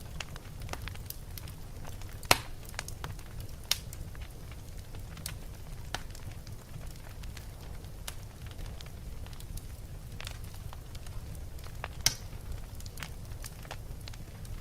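Wood fire burning in a fireplace: a steady low rumble with scattered crackles and pops, two sharper pops standing out about two seconds in and near twelve seconds in.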